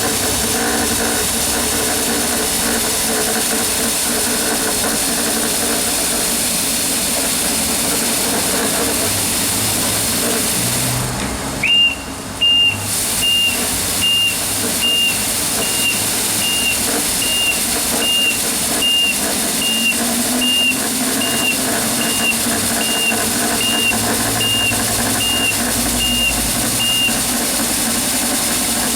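Battery ride-on floor scrubber running with a steady hiss from its motors. About twelve seconds in, a high beep starts repeating a little faster than once a second for about fifteen seconds: the machine's reverse alarm.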